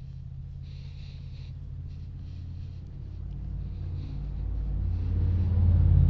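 A milling machine's electric motor gives a steady low hum that grows steadily louder.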